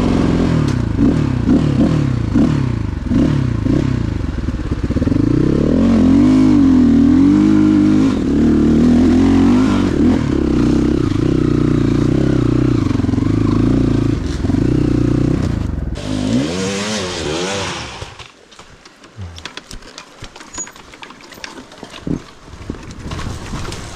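Motorcycle engine revving up and down over and over, then after a last rev it cuts out about three quarters of the way through, leaving only scattered clicks and rattles.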